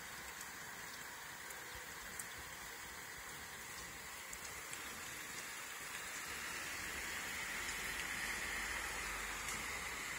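Heavy rain falling steadily, a continuous hiss with a few faint drop ticks, growing a little louder in the second half.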